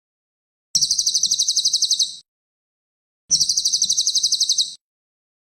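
Cililin songbird singing: two high-pitched trills of rapidly repeated notes, about ten a second, each lasting about a second and a half with silence between them.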